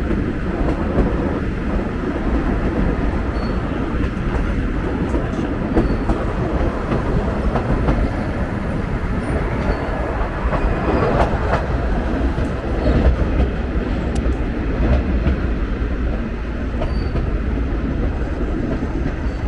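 Train running on its rails: a steady, loud rumble with some clicking from the wheels.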